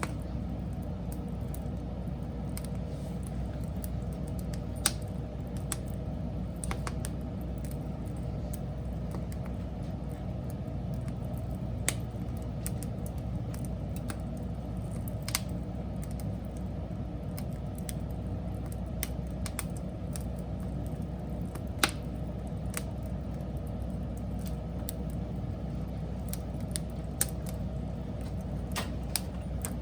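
Wood fire burning with a steady low rush, broken by scattered sharp pops and crackles, a handful of them louder than the rest.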